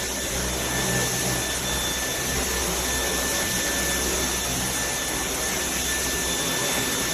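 Dyson V10 cordless stick vacuum running steadily: a strong airy hiss with a steady high whine from its motor.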